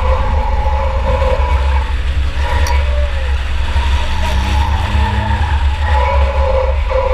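In-cabin sound of a 2004 Chevy Impala enduro car racing: the engine running hard, its pitch rising and falling over a heavy steady rumble, with tyres skidding.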